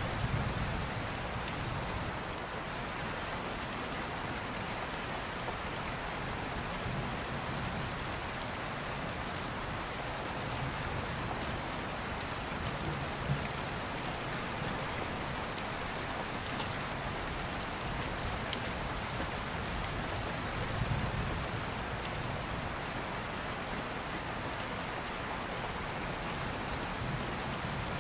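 Steady rain falling, with a few faint crackles of an open fire. A soft low rumble of distant thunder swells briefly near the start and again about three quarters of the way through.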